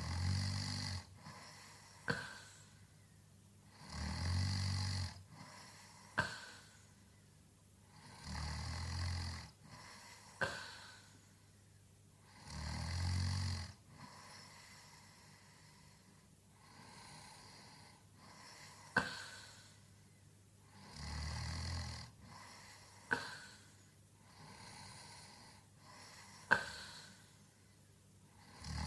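A sleeping man snoring: a low snore about every four seconds, each followed about two seconds later by a short sharp pop.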